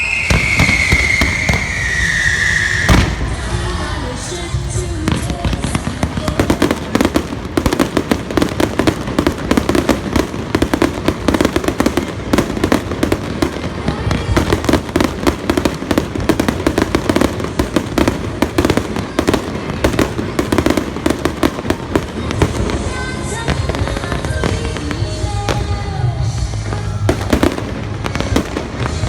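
Aerial fireworks: a falling whistle for the first few seconds, then dense, rapid crackling and bangs of bursting shells that run on throughout, with music playing underneath.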